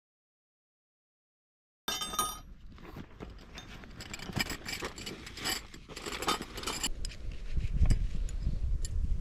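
Silent for about the first two seconds, then small metal parts of camping gear clinking and jangling as they are handled, followed near the end by lower, duller handling knocks.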